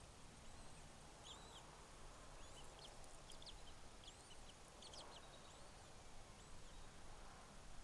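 Faint, high bird chirps and peeps, short and scattered, several close together around the middle, over a steady low background hiss.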